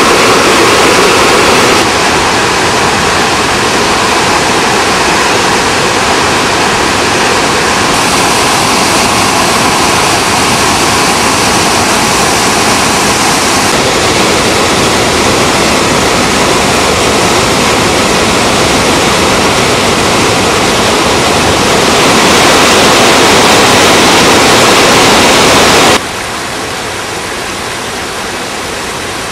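Krimml Waterfalls, swollen with snowmelt, pouring down as a loud, steady rush of white water. The level jumps abruptly several times and drops noticeably near the end.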